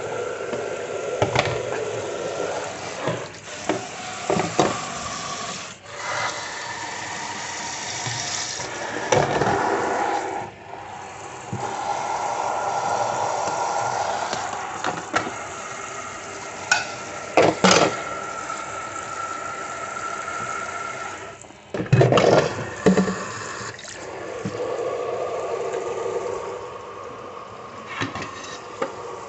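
Food sizzling in a frying pan, with utensils clinking and scraping against the pan now and then.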